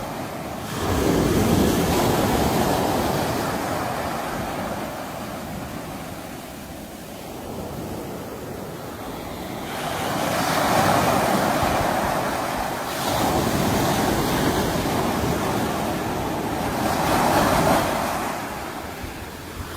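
Sea waves breaking and washing on the shore, the surf swelling and falling away in slow surges. There are louder breaks about a second in, around ten seconds in and near the end.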